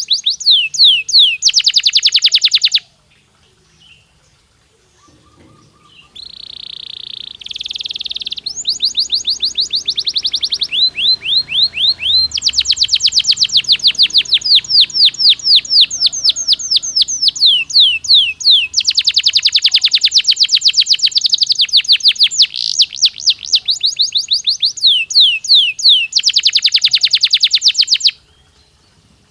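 Domestic canary singing: a long song made of rapid trills, each a quick run of identical high notes repeated many times a second, changing from one trill type to the next. The song breaks off for about three seconds near the start, then carries on and stops shortly before the end.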